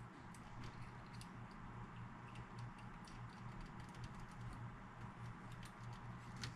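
Faint, irregular small clicks and ticks of a small screw and stereo parts being handled by hand, over a low steady hum.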